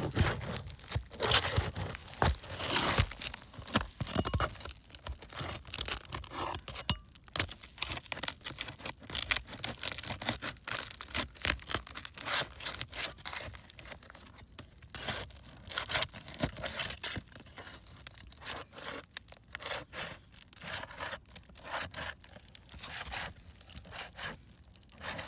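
A metal roof snake being worked up under asphalt shingles to catch and pull the roofing nails, with irregular scraping and clicks of metal against shingle and nail. The clicks come thick and fast for the first dozen seconds, then more sparsely.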